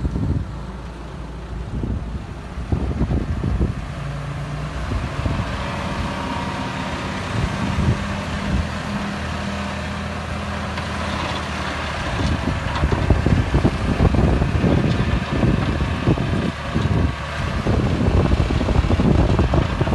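Diesel engine of heavy earthmoving machinery running steadily, then from about twelve seconds in louder and rougher with irregular knocks as the machine works.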